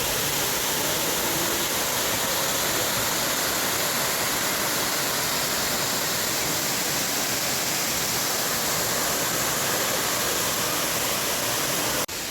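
Steady rush of a waterfall's water cascading over rock. Just before the end it drops out for an instant and comes back quieter.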